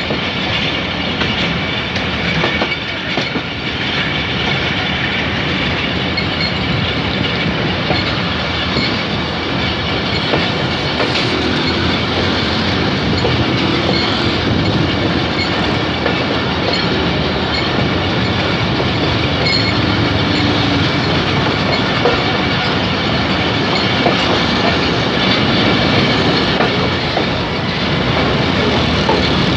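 Shah Hussain Express passenger train heard from aboard a coach: the steady rumble and clatter of its wheels running over the rails. The noise grows a little louder near the end as the coach rolls onto a steel truss bridge.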